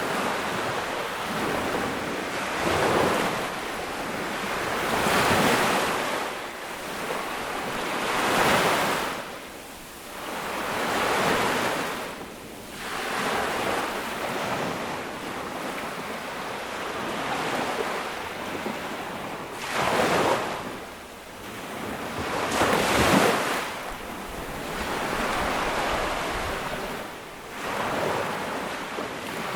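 Ocean waves breaking and washing up on a beach, rising and falling in a swell every few seconds.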